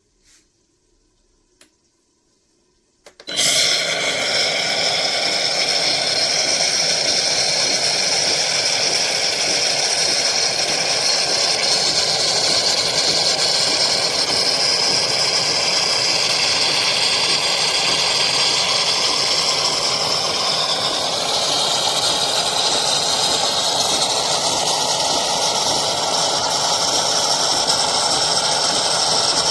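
KOTLIE espresso machine starting suddenly about three seconds in, after a few faint clicks, then running with a loud steady rushing noise and a high whine that shifts a little near the end.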